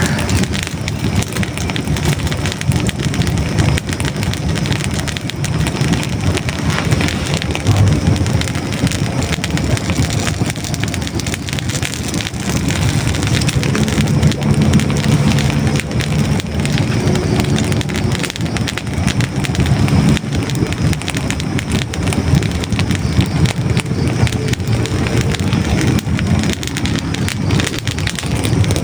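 Hardwood logs burning in a fireplace: a steady low rush of flame with dense, continuous crackling.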